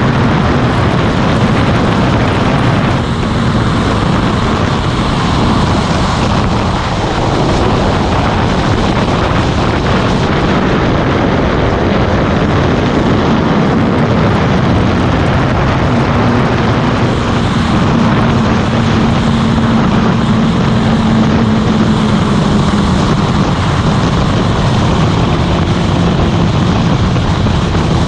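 Motorcycle engine running at a steady road speed under heavy wind rush on the microphone, its engine note drifting up and down a little.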